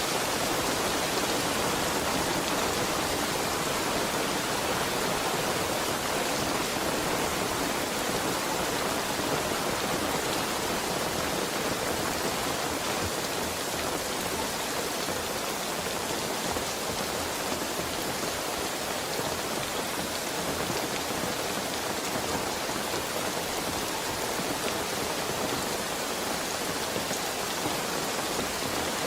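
Heavy rain falling steadily on surfaces, an even wash of noise with no breaks.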